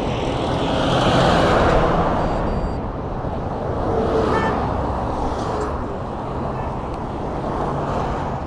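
Road traffic noise: passing cars over a steady broad rush, swelling about a second in and again around four seconds in.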